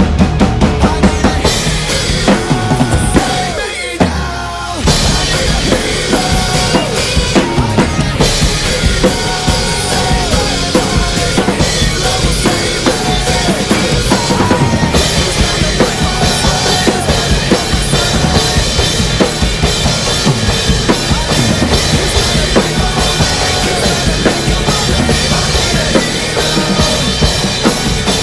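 Rock drum kit played hard through a single room mic: bass drum, snare and cymbals over a rock song's backing track. There is a short drop in intensity about four seconds in, then full driving playing.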